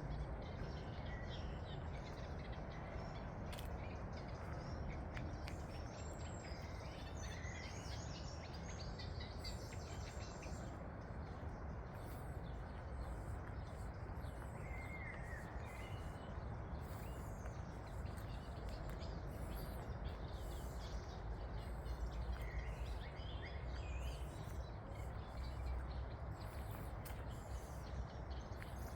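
Outdoor ambience: a steady low rumbling noise, with scattered short bird chirps throughout.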